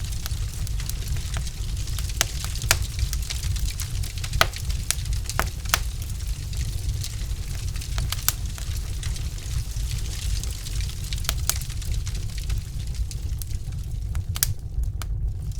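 Wood logs burning in a fireplace, crackling with irregular sharp pops and snaps over a steady low rumble.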